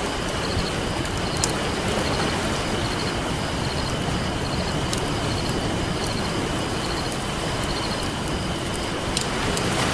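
Campfire crackling, with a few sharp pops, over a steady rush of ocean surf. A faint high chirp pulses about once a second.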